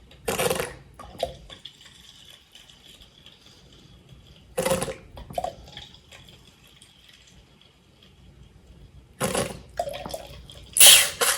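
Baby oil squeezed out of a plastic bottle into a jar in four short, sputtering spurts of liquid and air, with small liquid ticks and drips between them.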